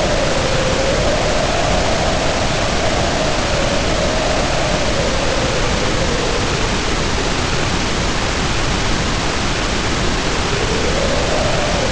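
Steady rain hiss with wind howling over it, the howl's pitch slowly rising and falling.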